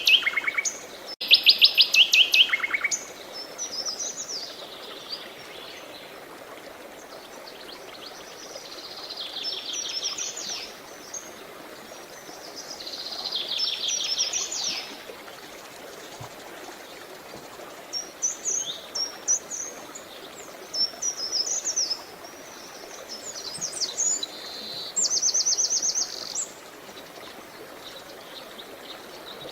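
Songbirds singing: bursts of rapid trilled notes and short chirping phrases every few seconds, loudest in the first few seconds. Underneath runs a steady hiss of flowing water.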